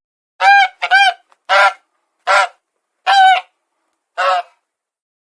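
Goose honking: six short calls over about four seconds, the first two close together.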